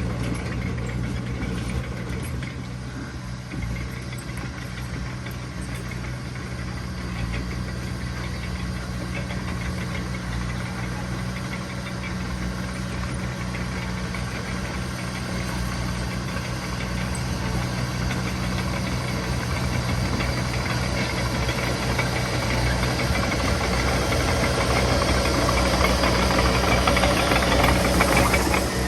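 Diesel engine of heavy earthmoving machinery running steadily with a low hum and some rattle, growing louder near the end.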